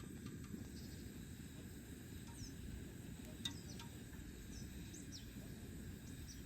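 Quiet outdoor ambience: a steady low rumble with faint, short high chirps scattered through it, and a faint click about three and a half seconds in.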